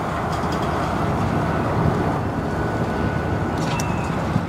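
Freight train boxcars rolling slowly past, a steady rumble of wheels on rail, with a faint thin whine joining about two seconds in.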